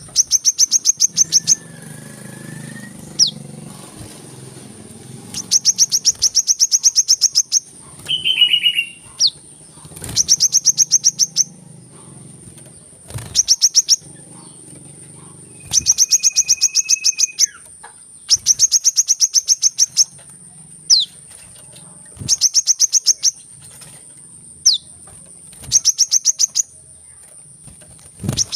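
Sunbird lure call: bursts of rapid, high-pitched ticking trills about one to two seconds long, repeated every few seconds in an identical pattern, like a looped recording played to lure the birds. Short whistled calls and quick falling notes from other birds come between the bursts.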